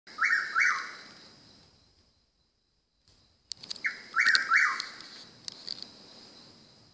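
A bird calling at night in short, harsh notes that drop in pitch at the end: two notes near the start, then after a pause a burst of three more, which the uploader wonders is a northern mockingbird. A steady high-pitched whine runs underneath, and a few sharp clicks come just before the second burst.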